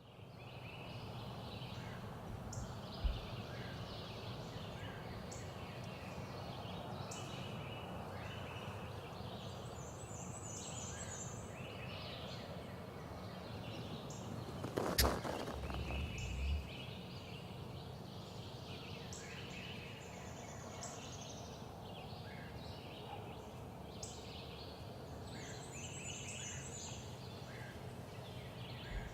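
Wild songbirds chirping and trilling from many directions over a faint outdoor background. About halfway through there is a single sharp click, with a couple of low thumps around it.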